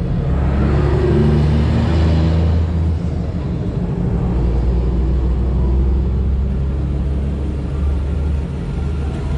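Car engine running, deep and steady, with small swells in level.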